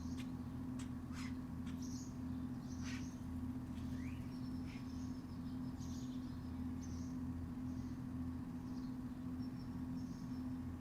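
Outdoor backyard ambience: short high chirps repeating at uneven gaps of about a second, over a steady low hum. A few sharp clicks fall in the first three seconds.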